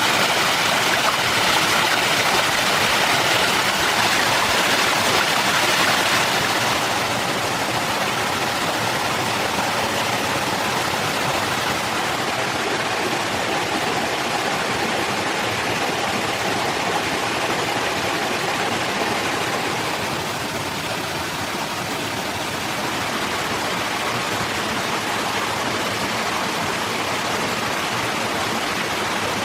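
Steady rushing of running water, like a forest stream, without clicks or distinct tones; it drops a little in level about seven seconds in.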